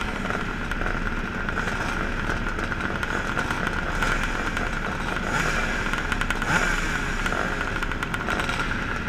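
Several classic twinshock motocross bikes' engines running together at the start line, with a few brief revs standing out partway through.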